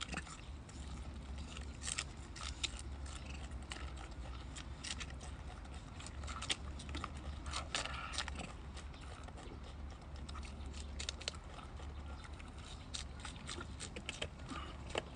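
Pet monkeys eating: faint, scattered clicks and scrapes of food being handled and chewed, over a low steady hum.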